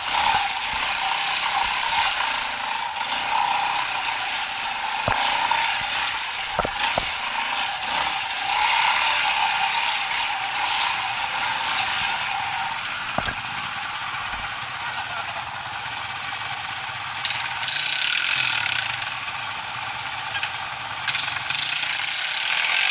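Off-road motorcycle engine running on a trail, with a few sharp knocks about five, seven and thirteen seconds in.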